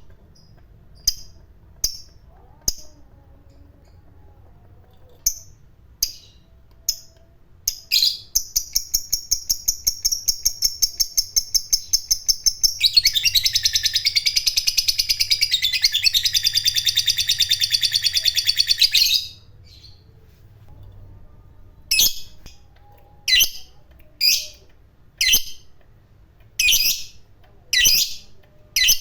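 Lovebird song: a few sharp separate chirps, then from about eight seconds a rapid pulsed trill that turns louder and denser a few seconds later and runs for about six seconds before stopping, the long 'ngekek' trill. Separate sharp chirps start again after a short pause.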